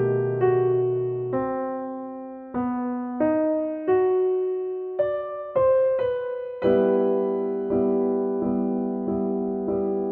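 Background music: soft piano or electric piano playing a slow melody, single notes and chords struck one after another, each note fading before the next.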